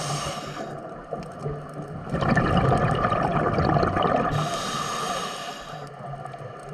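Ocean water surging and gurgling, swelling louder about two seconds in and then falling back, with bursts of hiss that may be wind or spray.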